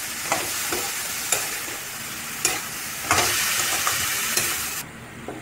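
Chopped onions and tomatoes sizzling in oil in a metal kadai while a metal spatula stirs them, scraping and knocking against the pan every second or so. The sizzle drops off abruptly near the end.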